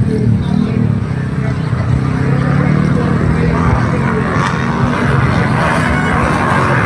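Several trail motorcycle engines running together during a grasstrack race, their pitch rising and falling as riders open and close the throttle.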